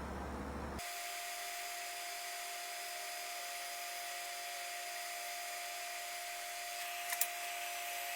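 Small power-tool motor running steadily with a high, even whine, with a couple of light clicks about seven seconds in.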